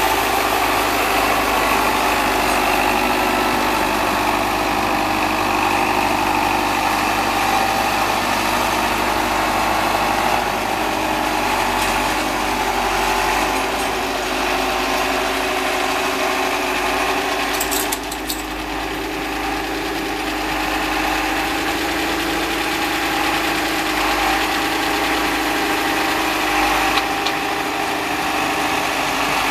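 1974 Case David Brown 1212 tractor engine running steadily while driving a snowblower, with a short rattle about two-thirds of the way through.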